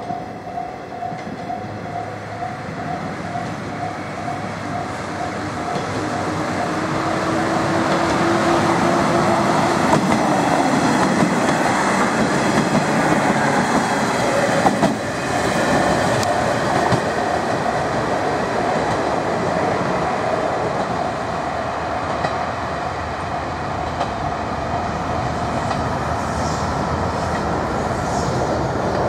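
Hisatsu Orange Railway diesel railcar approaching and passing close by, its engine note dropping in pitch as it goes past, with wheels clattering over the rail joints. Loudest as it passes, about ten seconds in. A level-crossing warning bell rings rapidly throughout.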